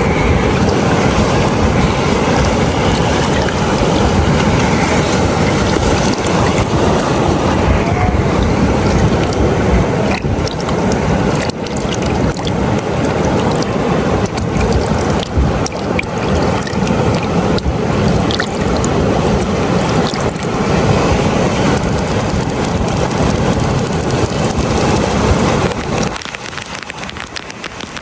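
Beach ambience: a steady rush of surf and water with wind buffeting the microphone, easing off a couple of seconds before the end.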